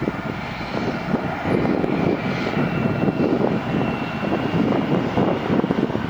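Jet airliner engines running with a steady rumble, a faint high whine held above it.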